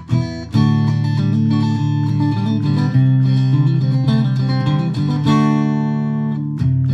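Fender Deluxe Players Stratocaster electric guitar played through a Fender Mustang GTX100 modeling amp, strumming chords and letting them ring, with a new strum every two or three seconds.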